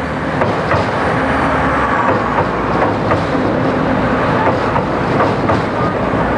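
Pingxi Line DRC1000 diesel multiple unit passing close by over a steel girder bridge, a loud steady rumble with its wheels clacking irregularly over the rail joints.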